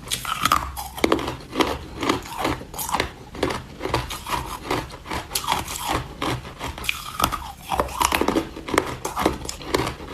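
Hard ice being bitten and chewed close to the microphone: a dense, irregular run of sharp cracking crunches, several a second.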